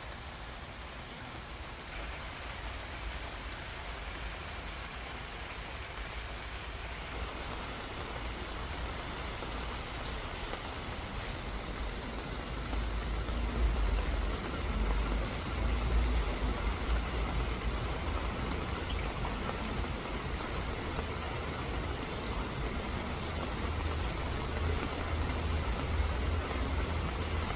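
Steady rain falling, a continuous even hiss of drops, over a low rumble. It grows slightly louder about halfway through.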